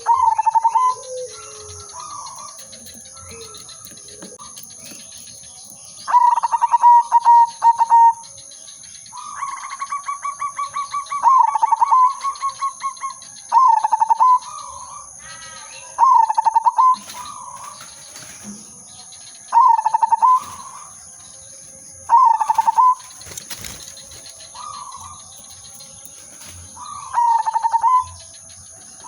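Zebra dove (perkutut) cooing: short phrases of stuttering notes ending in a held coo, repeated every two to three seconds, with one longer rapid rolling run about a third of the way in.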